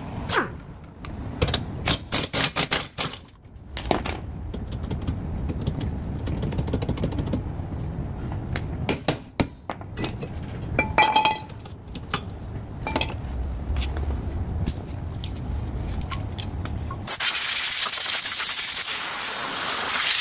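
Metal tools clinking and knocking against a car's suspension parts over a low rumble. About three seconds before the end, a loud steady hiss starts suddenly.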